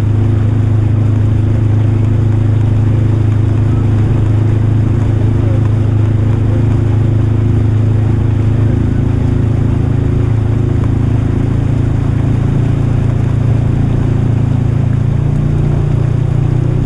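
Polaris RZR Highlifter 1000 side-by-side's engine running at a steady drone under way, its pitch stepping up slightly near the end.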